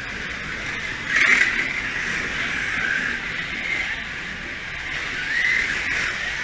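Small electric slot-car motors whining, the pitch rising and falling as the cars speed up and slow down around the track, loudest about a second in.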